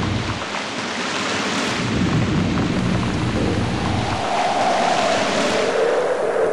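Thunderstorm ambience: steady rain with low rolling thunder, swelling twice.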